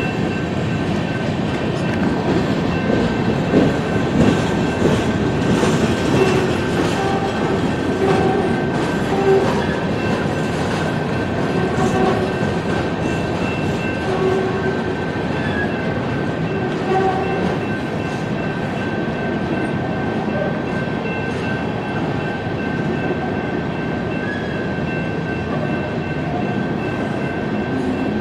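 Coal train cars rolling past on the rails: a steady rumble and clatter of wheels over the track, with a thin high whine and short wheel squeals now and then in the first half.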